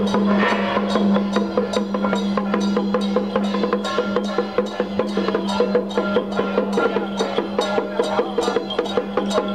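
Traditional temple procession percussion: drums and sharp wood-block-like strokes at a quick, even beat of about four a second, over a steady low tone.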